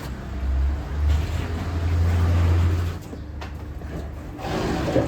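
A low engine rumble, as of a motor vehicle, that cuts off about three seconds in.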